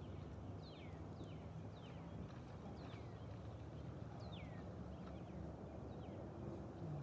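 A bird calling repeatedly with short chirps that slide downward, roughly one or two a second at uneven spacing, over a steady low rumble.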